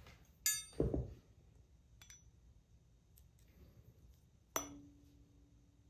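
A metallic clink and two low knocks as a solfeggio tuning fork is handled. Then the fork is struck and rings with a single steady tone that carries on to the end.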